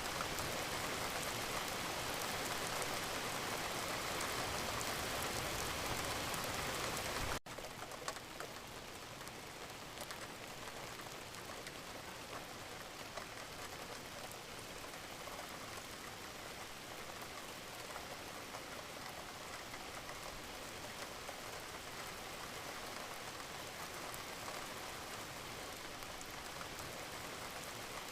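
Wood fire crackling in a fireplace: a steady hiss with scattered small pops and snaps. About seven seconds in it cuts abruptly to a quieter level and carries on.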